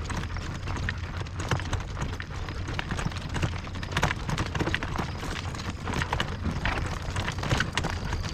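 Pony's hooves clip-clopping at a trot, with wind rumbling on the microphone.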